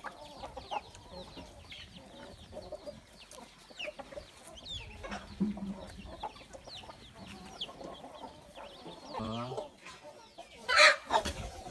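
A flock of chickens clucking, with many short, high, falling peeps throughout and a lower drawn-out call about nine seconds in. A loud, sharp sound comes near the end.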